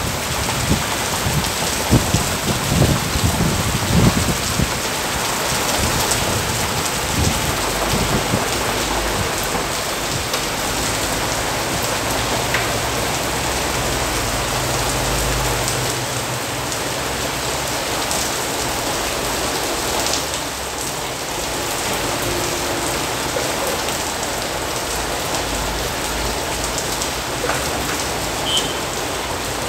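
Heavy rain pouring steadily onto wet pavement, parked cars and motorcycles: a dense, even hiss of downpour. Low rumbles come through during the first eight seconds or so.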